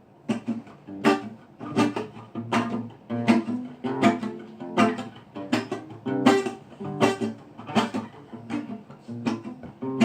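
Acoustic guitar strumming a reggae rhythm: sharp chord strokes about every three quarters of a second, with lighter strokes in between, starting just after the opening.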